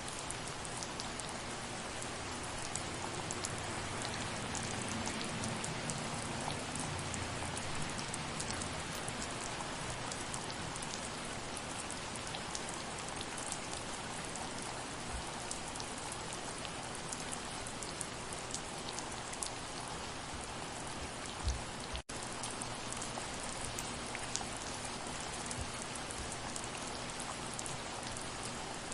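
Steady soft rain falling, a continuous hiss with scattered individual drops ticking. About three-quarters through there is a single low thump, followed by a split-second gap in the sound.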